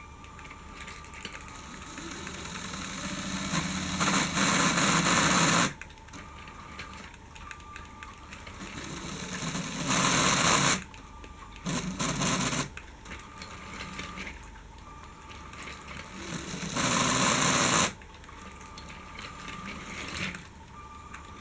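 LEGO Powered UP train running on plastic track: a small electric motor and wheels whirring, growing louder as the train comes near and loudest as it passes close, about every six seconds.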